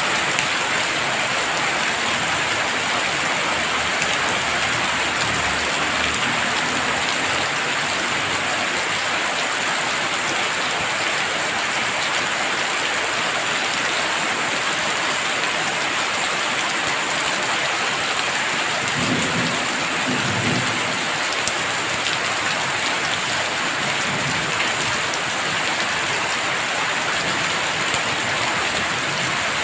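Heavy rain falling steadily, with a short low rumble of distant thunder about two-thirds of the way through.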